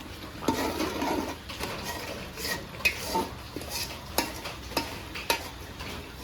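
A spatula stirring and scraping spice masala frying in a cooking pot, with several sharp, irregular knocks of the spatula against the pot.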